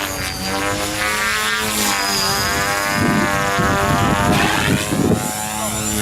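Electric radio-controlled model aircraft flying close by, a whine of many pitched tones that swoop down and back up as it passes and turns.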